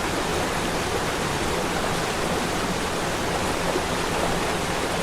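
Waterfall running: a steady rushing of falling water.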